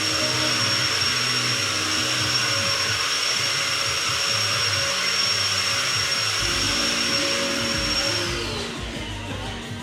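A small electric motor appliance running with a steady high whine and hiss, then switched off about eight seconds in, its whine falling in pitch as it winds down, over background music.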